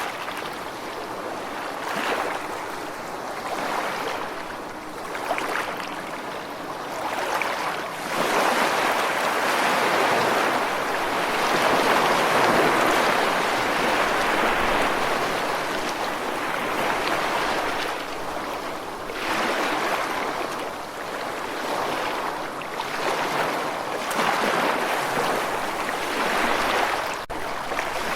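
Ocean waves breaking and washing on a shore, a steady rush of surf that swells and ebbs, building to a longer, louder stretch in the middle.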